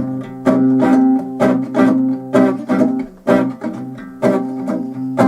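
Acoustic guitar strummed in a rockabilly rhythm, about two strokes a second, with no singing.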